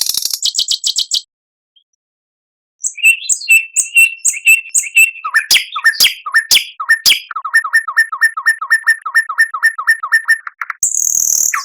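Songbird song: a rapid high chatter that breaks off about a second in, a short silence, then clear whistled phrases ending in a long, even run of identical down-slurred whistles, about five a second. A harsh, high chatter begins near the end.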